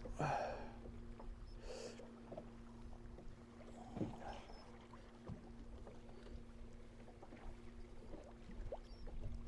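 Faint steady hum of a bass boat's electric trolling motor over a low rumble of wind and water. A few light knocks sound on the boat, the clearest about four seconds in.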